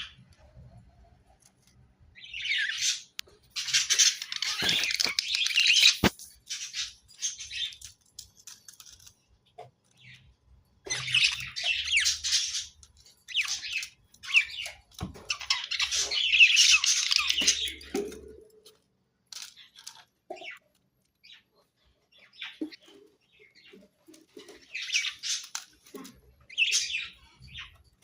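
Budgerigars chattering and warbling in bursts of a few seconds, with short pauses between, and a sharp click about six seconds in.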